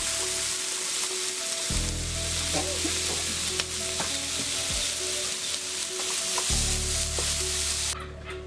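Chopped young coconut, chayote, onion and red pepper sizzling in oil in a non-stick frying pan. The sizzle cuts off suddenly near the end.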